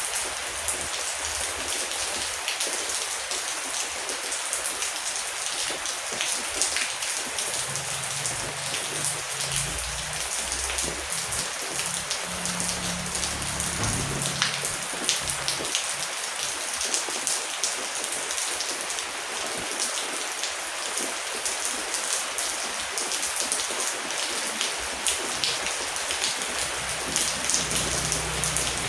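Heavy, steady rain, a dense hiss with many separate drops ticking and splatting on a surface. A low, soft rumble swells in the background about a third of the way through and again near the end.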